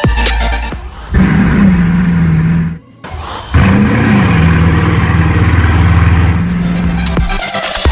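Sports car engine running at high revs under acceleration, its pitch rising then holding steady. It cuts out briefly about three seconds in, then rises and holds again.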